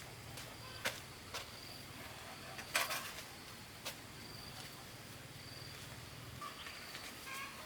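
Scattered light knocks and clicks, a small cluster of them about three seconds in, over quiet rural ambience with a faint insect buzz that comes and goes.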